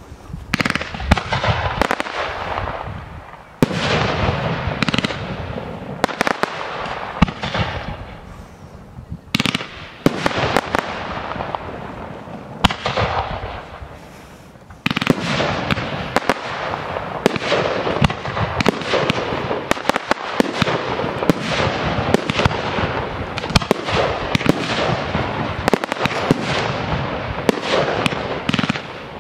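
Aerial fireworks display: shell bursts and crackling come in waves, with short lulls in the first half and a dense, unbroken run of bangs and crackle from about halfway through.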